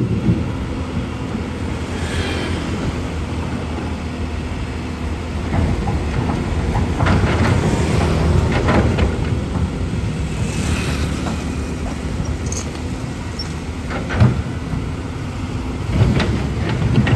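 Caterpillar 320 excavator's diesel engine running steadily, with a few sharp knocks along the way, the loudest about fourteen seconds in.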